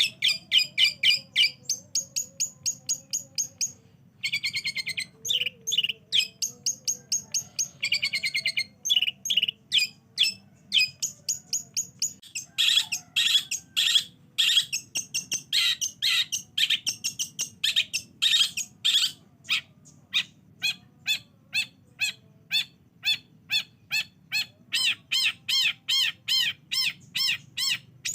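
Long-tailed shrike (cendet) singing a long, varied run of sharp chirps, several notes a second, broken by a few fast trills, over a faint steady hum.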